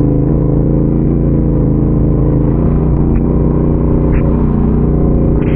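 Adventure motorcycle engine running steadily under way, its pitch holding level with a deep rumble.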